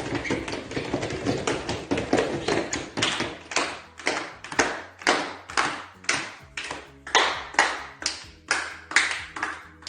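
Hand clapping imitating a rainstorm: a dense, fast patter for the first few seconds that thins into separate sharp claps about two or three a second, the storm easing off.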